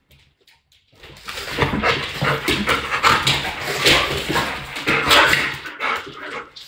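Pet dogs panting heavily close to the microphone, starting about a second in.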